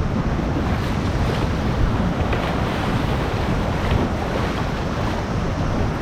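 Steady rushing of river water around the kayak, with wind buffeting the microphone as a fluttering low rumble.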